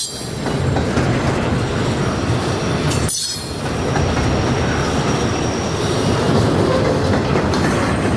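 Norfolk Southern freight train rolling past close by: a steady rumble of railcar wheels on the rails, with some clacking and a faint high wheel squeal.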